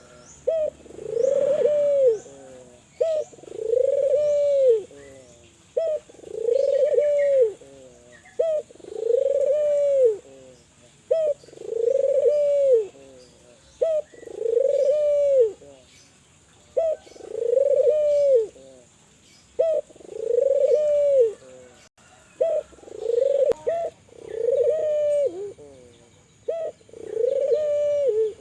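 Spotted dove (tekukur, Kelantan song breed) cooing over and over: a short lead note then a longer arched coo, repeated about every two seconds.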